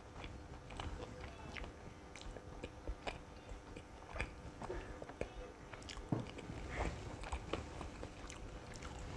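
A person chewing a mouthful of crispy KFC fried chicken: faint, irregular crunches and mouth clicks.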